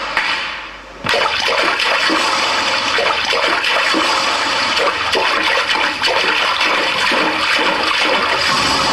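A steady, loud rush of falling water, like heavy rain, which fades briefly and then comes back suddenly about a second in.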